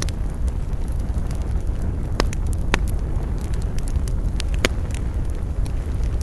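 Wood fire crackling: a steady low rumble of burning with scattered small pops and three louder snaps, about two, two and a half and four and a half seconds in.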